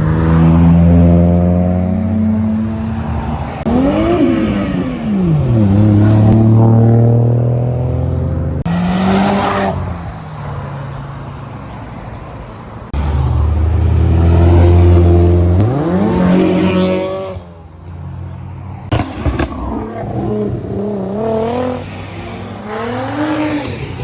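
Several Japanese performance cars driving past one after another, engines revving and accelerating, the pitch rising and falling several times. A short harsh burst comes about nine seconds in, and a few sharp cracks around nineteen seconds.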